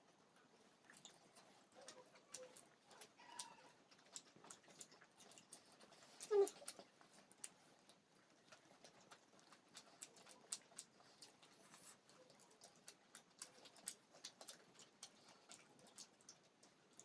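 Quiet eating sounds: faint, irregular mouth clicks and chewing of momo dumplings, with one short, louder pitched sound, like a brief hum, about six seconds in.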